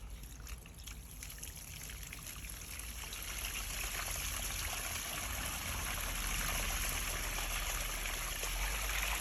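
Backed-up water running out of an opened sewer line, a steady rush that grows gradually louder.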